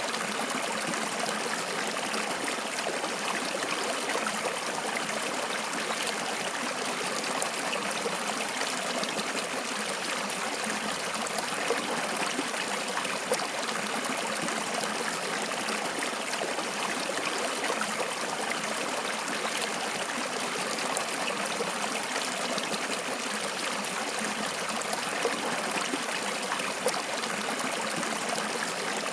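Water flowing steadily over stones, an even rushing hiss with small splashes and trickles.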